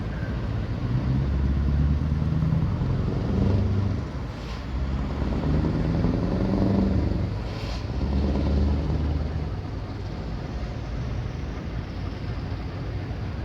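A motor vehicle engine running, its sound swelling and fading several times, then quieter over the last few seconds.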